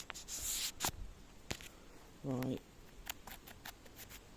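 Rustling and a scatter of small sharp clicks and snaps, as of someone moving through woodland undergrowth with a handheld camera: a brief rustle near the start, a couple of crisp snaps, then a run of light ticks and clicks in the second half.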